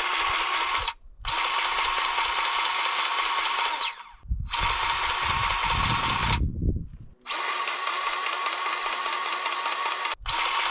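DeWalt cordless grease gun running in long bursts, its motor whirring with a fast pumping tick. It stops briefly three times as the trigger is let off between strokes of greasing.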